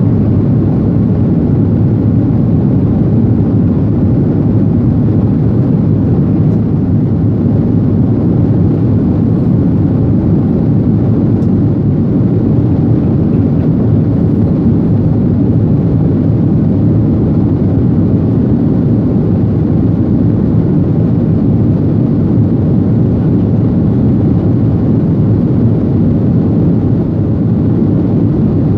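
Airliner jet engines and rushing air, heard from inside the passenger cabin as a loud, steady low rumble.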